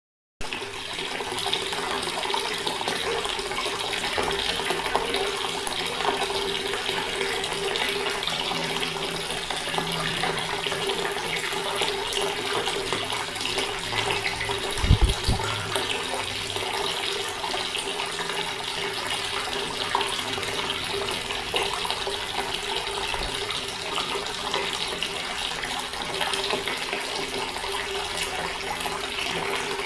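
Water running steadily from a tap in an unbroken stream. A brief low thump comes about halfway through.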